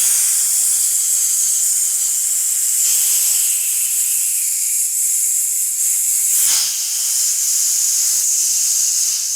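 A long, steady, high-pitched hiss that starts abruptly, swells briefly about six and a half seconds in, and runs on unbroken.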